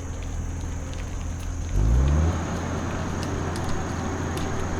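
Wind rumbling on the microphone of a moving bicycle, with a motor vehicle's engine and tyre noise swelling about two seconds in. A steady high insect drone runs underneath.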